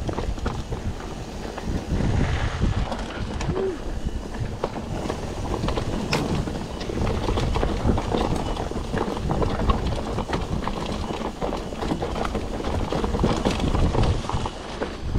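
Mountain bike being ridden over a rough dirt trail: continuous rattling and tyre noise with many small knocks, and wind buffeting the microphone.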